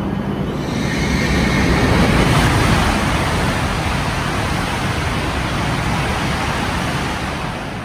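A coupled E5 and E6 series Shinkansen set passing through the station at speed without stopping: a loud, dense rush of wind and running noise that swells to a peak about two seconds in, holds, and begins to die away near the end.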